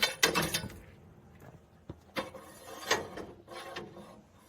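Clicking and rattling of tools or metal parts being handled, in several separate bursts: a loud clatter at the start, smaller ones about two and three seconds in.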